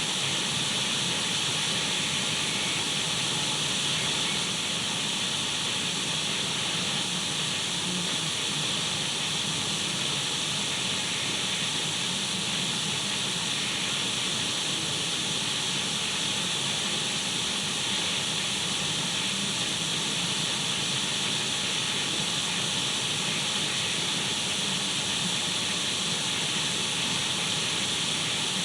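Untuned radio static: a steady, even hiss that does not change.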